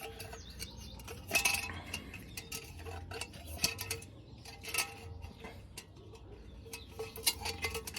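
Scattered metallic clinks and knocks, about half a dozen, from a can-on-a-pole fruit picker being worked over prickly pear fruit on the nopal pads.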